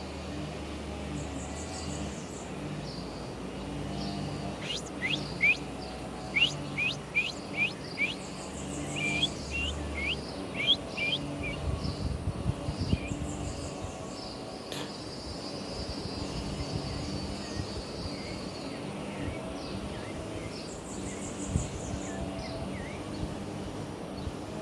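Birds singing and calling: a run of quick, sharp chirps through the middle, with short high trills recurring throughout, over a low steady hum.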